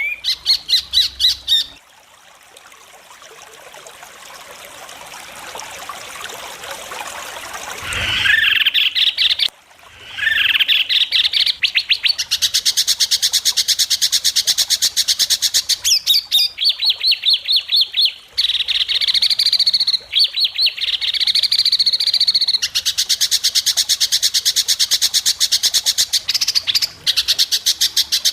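White-rumped shama (murai batu) singing a sharp, fast 'besetan': long runs of rapidly repeated high notes. Near the start a buzzy note swells louder for several seconds, and the song breaks off briefly about ten seconds in before the rapid runs resume.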